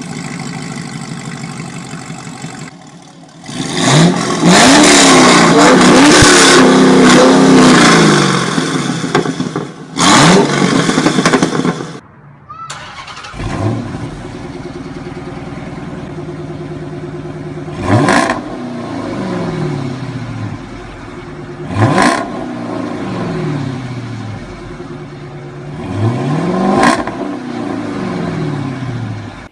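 A car engine idling, then revved hard for several seconds and blipped once more. After a break, an idling engine takes three sharp throttle blips, each rising quickly and falling back to idle.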